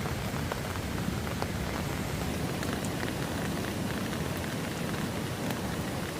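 Steady rain falling, with scattered faint ticks of drops striking nearby surfaces.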